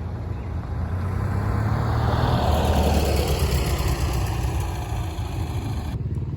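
A small motorbike engine passing by: it grows louder to a peak about halfway through, its pitch falls, and it eases off before cutting off abruptly near the end.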